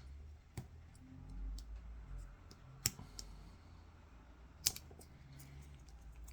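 A handful of small sharp clicks and taps of tools and small parts being handled as the clock backup coin-cell battery is taken out of a Canon EOS 5D, the sharpest about three and five seconds in.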